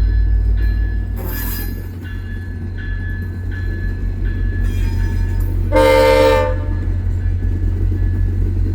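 VIA Rail passenger train's diesel locomotive rumbling steadily, its bell ringing about once every half second or so, with a brief hiss about a second and a half in. About six seconds in, the locomotive sounds one short horn blast, the loudest sound here.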